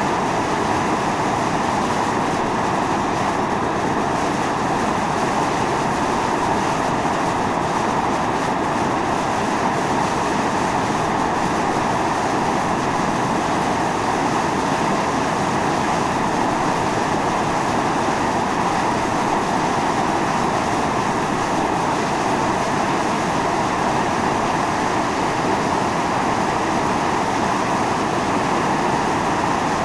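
Volcanic fumarole vent at Mt. Io (Atosanupuri) hissing steadily as steam and gas jet out, an even rushing roar with no breaks.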